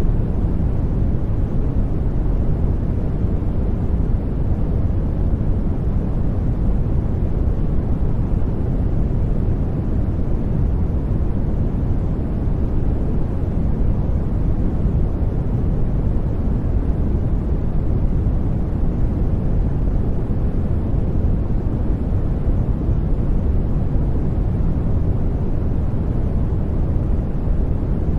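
Steady, deep white-noise track: an even rushing hiss weighted toward the low end, with no changes in level or pitch.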